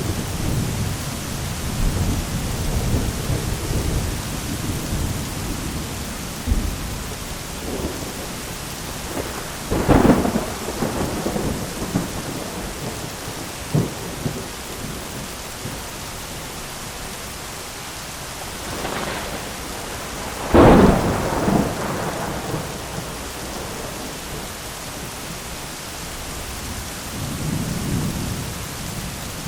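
Heavy rain falling on an umbrella, a steady hiss, with thunder: a low rumble at the start, sharp cracks about ten seconds in and again about twenty seconds in, and another low rumble near the end.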